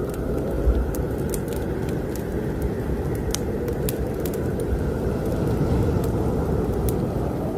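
Wood fire in a fireplace crackling with scattered sharp pops, over the steady rush of snowstorm wind, with a low thump about a second in.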